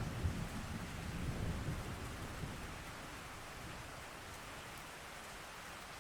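Steady rain with a low rumble of thunder that fades away about halfway through.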